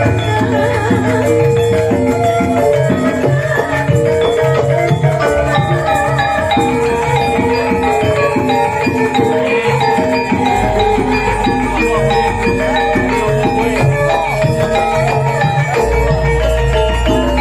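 Javanese gamelan music played loudly over a PA sound system during a sound check: struck metallophone notes in quick succession over drumming, with deep low notes about ten seconds in and again near the end.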